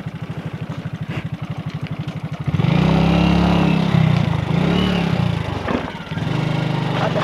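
Motorcycle engine idling with an even thumping beat, then revved twice from about two and a half seconds in, each rev rising and falling in pitch and louder than the idle. It settles back to idle near the end.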